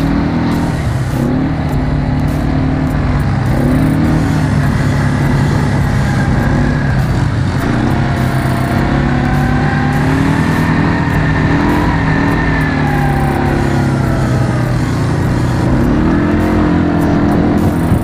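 Quad bike engine running continuously under way, its revs rising and falling.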